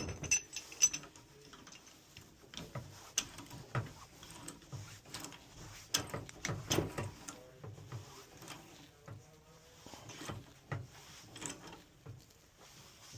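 Irregular clinks, knocks and scrapes of hand tools and metal pipe fittings being handled, busiest around the middle.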